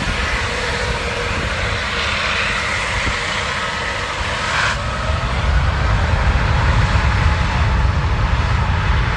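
Airbus A350's Rolls-Royce Trent XWB jet engines at takeoff thrust: a steady, loud rumbling roar that grows a little louder in the second half.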